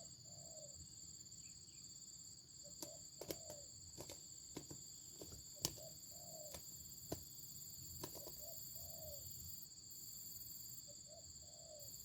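Wild dove cooing faintly: a short note followed by a longer note that rises and falls, repeated four times about every two and a half seconds.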